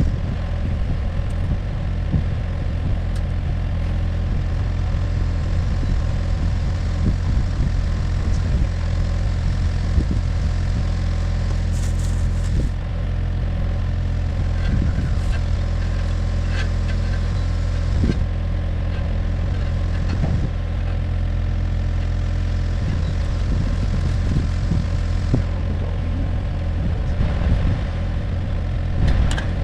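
Komatsu mini excavator's diesel engine running steadily, with scattered clicks and knocks over it.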